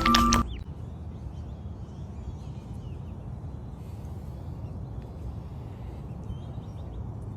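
Outdoor ambience: a steady low rumble like wind on the microphone, with a few faint bird chirps. It follows a brief end of mallet-percussion music right at the start.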